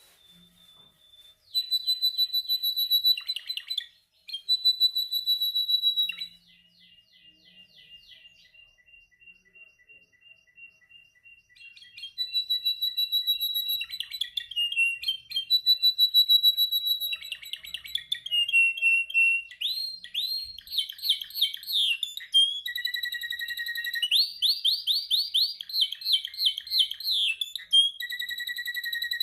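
A male domestic canary singing a long song of rapid rolling trills, one repeated note after another. About six seconds in it drops to a quieter, slower run of soft notes. From about twelve seconds on the trills come back louder and faster.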